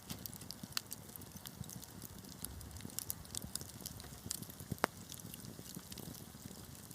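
Wood fire crackling in a fireplace: scattered sharp pops and snaps over a low, steady rumble of burning, with one louder pop about five seconds in.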